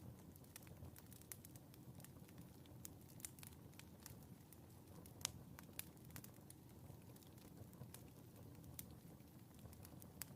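Wood fire crackling in a fireplace, faint: a low steady rumble with scattered sharp crackles and pops, one louder pop about five seconds in.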